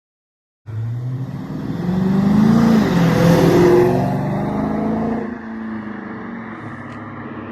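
Car engine accelerating hard, starting suddenly about a second in, rising in pitch and loudness to a peak, then easing off to a steadier, quieter run.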